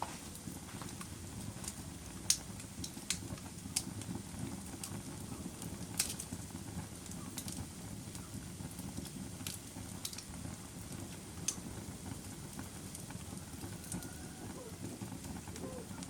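Wood fire crackling in a fireplace: a steady low rumble of burning with sharp, irregular pops and snaps, two of them louder about two and six seconds in.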